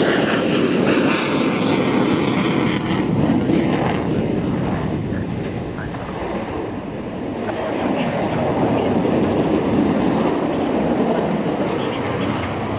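Fixed-wing aircraft engine noise, loud and steady; its high hiss drops away after about four seconds.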